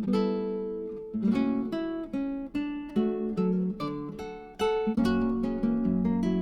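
Background music: acoustic guitar strumming and picking chords with a steady rhythm.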